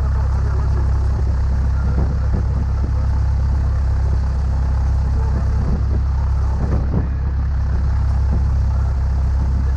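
Cessna 172's single piston engine and propeller running steadily as a dense, unbroken low drone.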